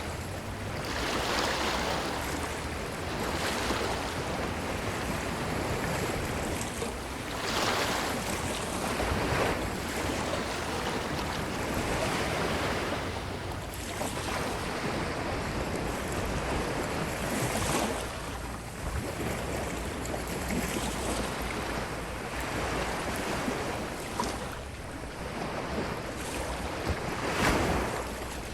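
Ocean waves washing onto a beach. Breakers swell and fall away every few seconds over a steady hiss of surf.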